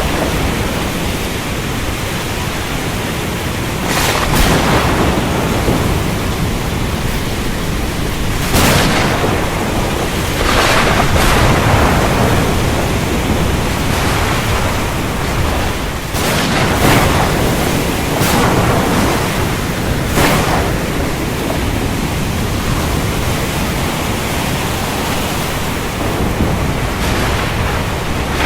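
Heavy rain pouring steadily, with several sharp thunderclaps breaking through every few seconds in the first two-thirds.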